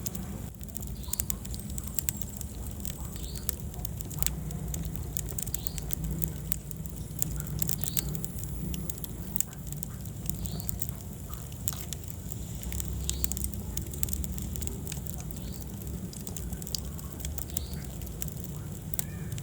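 Wood fire burning in a fireplace: many sharp crackles and pops over a steady low rumble.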